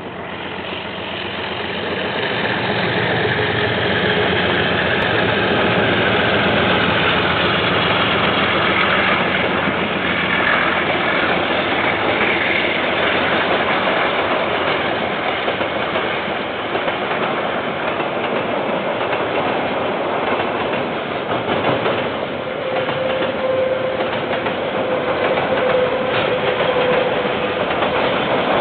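KiwiRail diesel train passing, rumbling and clattering as its wheels run over the rails, growing louder over the first few seconds and then holding steady. A steady whine joins in over the last several seconds.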